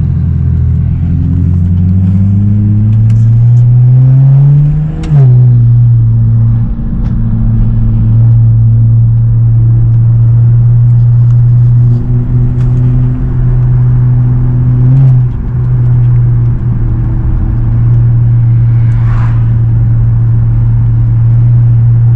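BMW E92 335i's N54 twin-turbo inline-six, fitted with upgraded turbos and downpipes, pulling hard: the engine note climbs for about five seconds, drops sharply at an upshift, then runs steadily at cruise with one brief rise and fall later on. Heard from inside the car.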